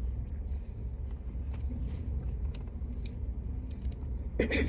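Someone chewing a mouthful of macaron, with small crunches and mouth clicks scattered through, over a steady low rumble.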